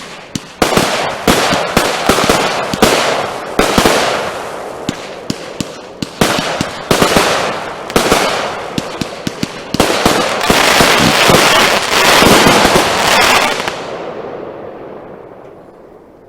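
Consumer fireworks going off in quick succession: many sharp bangs with crackling between them, thickening into a dense run of crackle past the middle, then dying away near the end.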